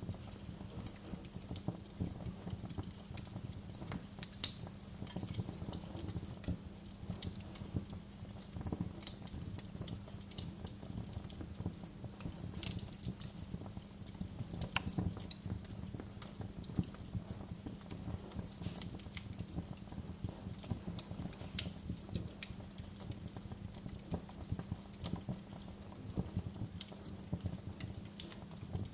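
Fireplace fire crackling: irregular sharp pops and snaps scattered over a steady low hum.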